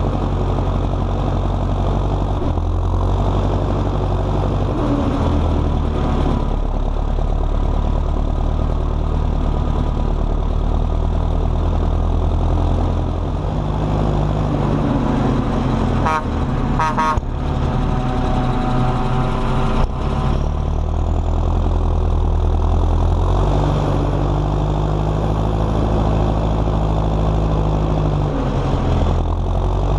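John Deere 6230 Premium tractor's four-cylinder turbocharged diesel engine running steadily while towing a trailer, its note stepping to a new pitch several times. A brief rattle comes about halfway through.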